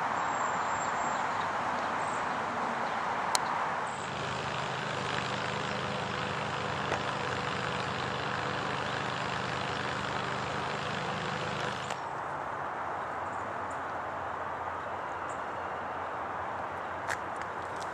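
Steady road traffic noise, with a motor vehicle's engine humming low from about four seconds in until about twelve seconds in.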